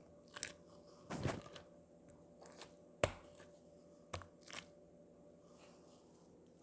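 Slime being handled by hand: scattered faint crackles and clicks, about half a dozen, with a sharper snap about three seconds in.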